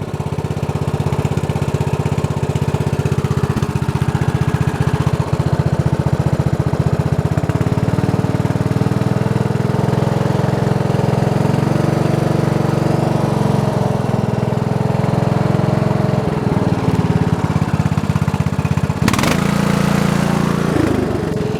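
Briggs and Stratton 14 hp single-cylinder overhead-valve vertical-shaft engine idling steadily. The idle is good, and it runs smoothly on a new carburetor.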